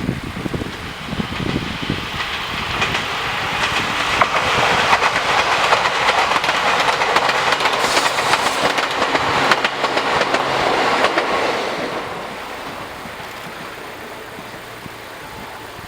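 Nagano Electric Railway 8500 series electric train, ex-Tokyu 8500 series, running past with its wheels clacking over the rail joints. The sound builds over the first few seconds, is loudest from about four to eleven seconds in, then fades away.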